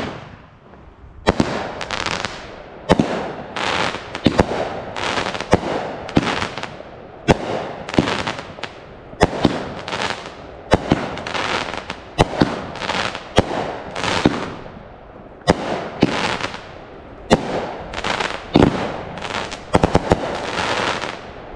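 A 16-shot, 200-gram multi-shot fireworks repeater cake firing. A string of sharp launch thumps and aerial bursts comes about one or two a second, with crackling breaks between them. The shots bunch closer together near the end in a finale barrage.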